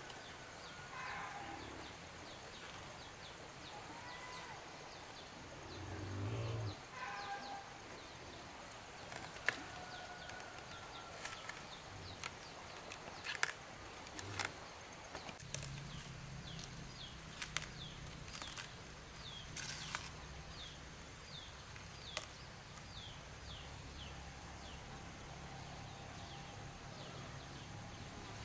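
Quiet outdoor farm ambience: a small bird chirps repeatedly in short falling notes through the middle. Scattered sharp knocks and a low thump come in between, and a low steady hum starts about halfway.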